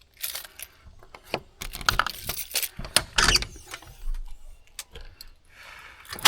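Camping gear being handled and moved about: an irregular run of metallic clinks, clicks and knocks with short rustles, busiest in the middle.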